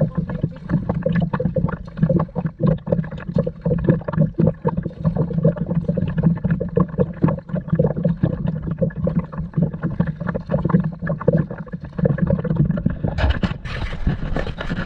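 Water gurgling and lapping against a kayak hull, with many small irregular knocks and splashes; it turns brighter and harsher near the end.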